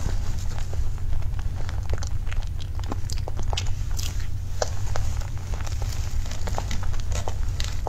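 Close-miked wet chewing and mouth sounds of someone eating soft cream cake, made up of many small, irregular clicks and smacks, over a steady low hum.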